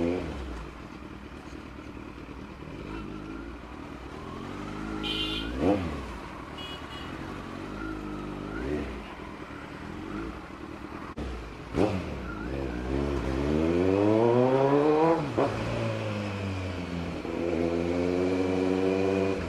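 Kawasaki Z900's 948 cc inline-four engine riding at low speed. Its pitch rises and falls with the throttle: quick blips about six and twelve seconds in, a long rising rev near the middle that drops off sharply, and another climb near the end.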